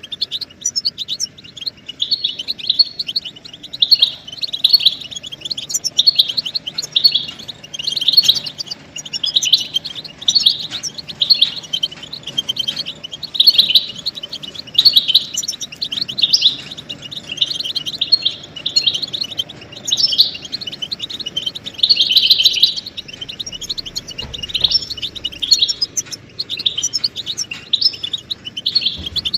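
European goldfinches twittering: the rapid excited calls used to stimulate males to sing, coming in quick clusters of high notes about once a second.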